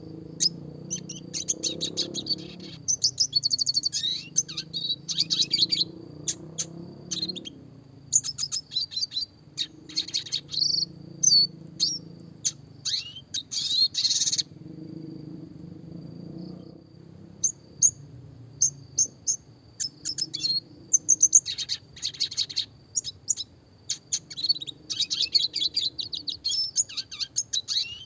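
Red siskin singing: bursts of rapid high twittering and trills, separated by short pauses, with a longer break about halfway through. A thin steady high note runs underneath, over a faint low hum.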